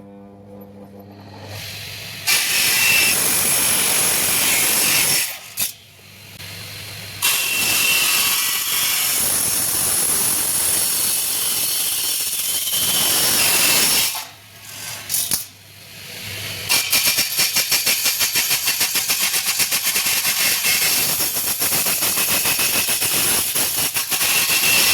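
Electric saw cutting aluminium partition sections: the motor spins up, then three long cuts with a harsh high screech, the last one pulsing rapidly.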